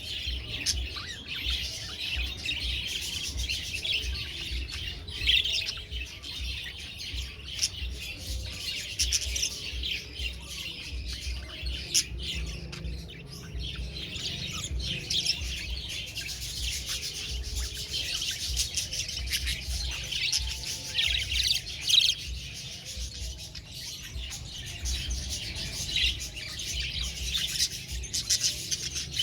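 Several budgerigars chirping and chattering without a break, many short calls overlapping, over a low rumble.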